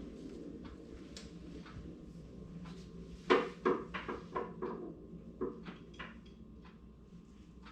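A new hood gas strut being fitted onto its mounts: a quick run of sharp metal clicks and knocks about halfway through, the first the loudest.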